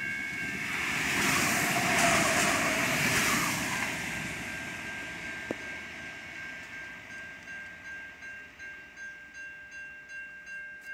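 A Comeng diesel railcar passes close by, its noise swelling to a peak about two seconds in and then fading. Level-crossing warning bells sound throughout as a steady high tone that becomes an even pulsing ring after the train has gone by.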